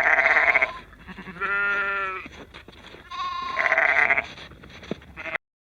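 Sheep bleating three times, each bleat about a second long.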